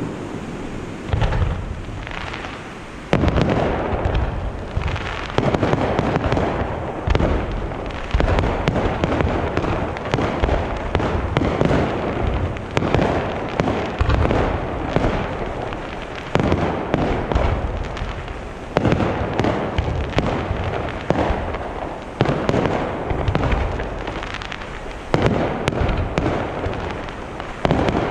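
Fireworks display: aerial shells bursting in quick succession, often more than one bang a second, each bang trailing off into a rumble that the next one overlaps.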